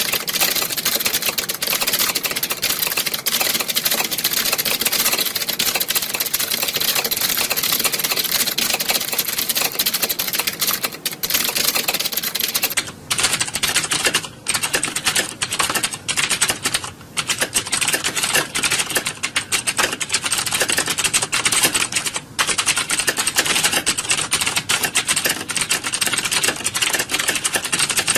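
Many computer keyboards being typed on at once, a dense, continuous clatter of key clicks like a hall full of typists. About 13 seconds in, the clatter thins and short pauses open between runs of keystrokes.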